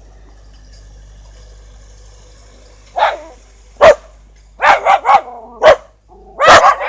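A dog barking at a passing tractor: a run of about seven short barks starting about three seconds in. Under them is the low steady hum of the tractor's engine.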